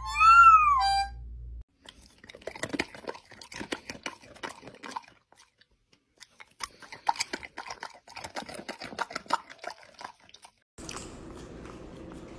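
A dog crunching a hard treat in two spells of chewing, about three seconds each, with a pause between. It opens with the last notes of a toy harmonica and a short rising-and-falling howl from a puppy, and near the end gives way to a steady low hiss.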